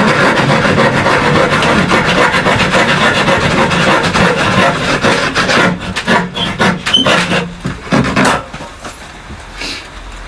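Handsaw cutting through wood in fast back-and-forth strokes. About six seconds in, the sawing breaks into a few separate strokes and knocks, then goes quieter.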